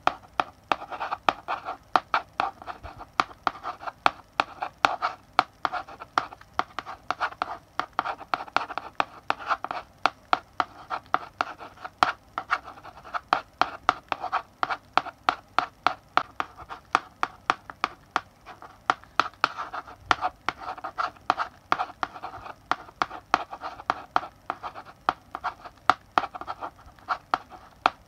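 Chalk writing on a blackboard: quick, irregular taps and short scratching strokes, several a second, with no pause.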